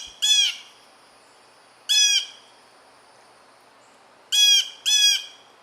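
Blue jay giving repeated short jay calls: one just after the start, one about two seconds in, and a quick pair near the end.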